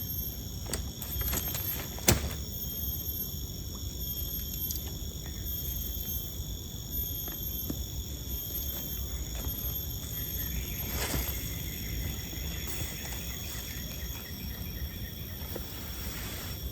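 Rainforest ambience: insects keep up steady high-pitched calls at several pitches. A few scattered clicks and knocks break through, the sharpest one about two seconds in.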